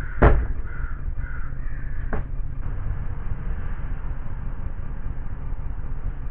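A crow cawing a few times over a steady low rumble. A sharp knock just before the first caw is the loudest sound.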